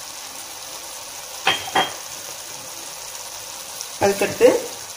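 Onion-tomato masala with freshly added ground spices sizzling steadily in hot oil in a pressure cooker, with two short clinks about a second and a half in.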